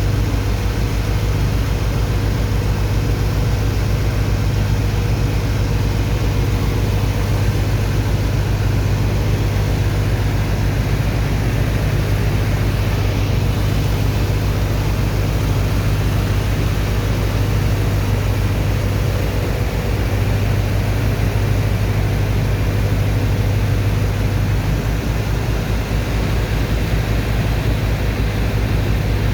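Sand-unloading dredger machinery running steadily: a deep, even engine-and-pump drone with a constant hum above it and a steady rushing hiss over the top, with no change in level.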